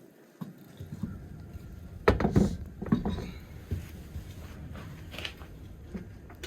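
Metal knocks and clatter from handling the car's wheel and tools, a quick run of sharp hits about two to three seconds in and a few lighter taps after, over a low steady rumble.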